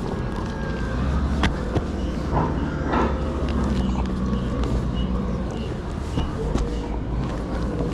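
Truck engine idling steadily as a low rumble, with a few short knocks and rustles from heavy tarps being handled.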